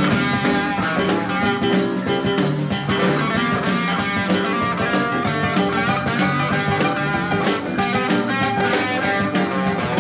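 A blues-rock band playing an instrumental passage, with guitar to the fore over drums keeping a steady beat.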